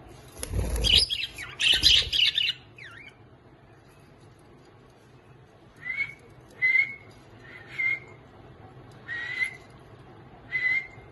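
Lovebirds calling: a burst of loud squawking chatter over a low rumble in the first two seconds, then after a pause a series of five short, rising, chirping calls spaced about a second apart.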